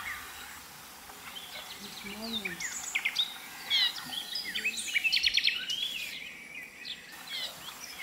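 Several birds calling in a forest chorus: short, varied high chirps and down-slurred notes, with a rapid trill a little after five seconds in.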